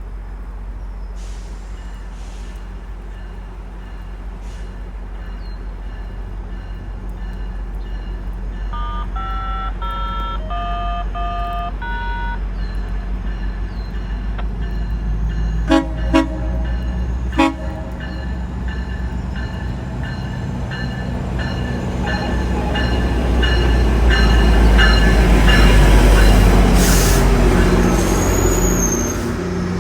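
Diesel passenger train running at a station platform, its low engine rumble steady at first, then growing louder past the middle and easing near the end. A short run of chime tones sounds about ten seconds in, and three short sharp sounds come about sixteen to seventeen seconds in.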